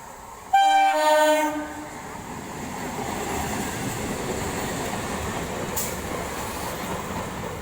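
Indian local train's horn sounding one blast of about a second and a half, followed by the steady rumble of the train running along the track.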